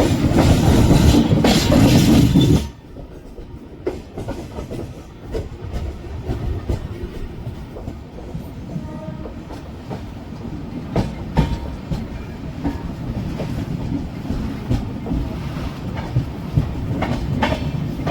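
Passenger train in motion, heard from on board a sleeper coach. For the first two or three seconds a loud rushing noise covers everything. It then drops to a steady rumble with irregular wheel clicks over the rail joints.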